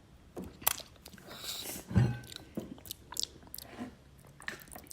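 Mouth sounds of someone eating a spoonful of yogurt, with scattered small clicks and a soft thump about two seconds in.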